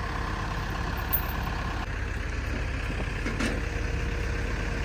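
Engine idling steadily, with a faint click about a second in and another a little past three seconds.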